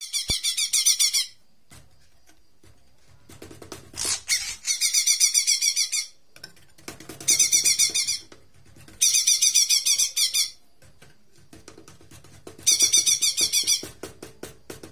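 A small songbird, the jomin used as a song model for bird training, singing in bursts of rapid, high-pitched chattering twitters, each about a second long, five times with short pauses between.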